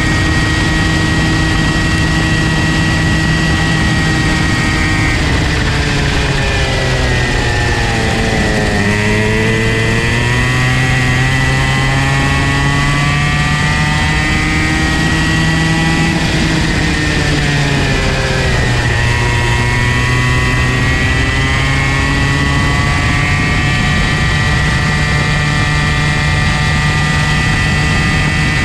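Comer C50 two-stroke kart engine running at high revs, its pitch falling twice as it eases off and climbing again as it picks up speed.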